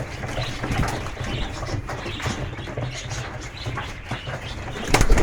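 Homing pigeons moving about in a loft: scattered rustling, scratching and wing flaps over a steady low hum, with one loud thump near the end.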